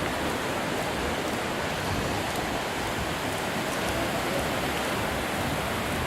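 Ocean surf washing onto a beach, a steady rushing wash with no distinct breaks.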